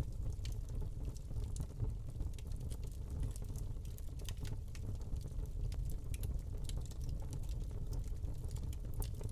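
Wood log burning in a fireplace: scattered, irregular crackles and small pops over a low, steady rumble.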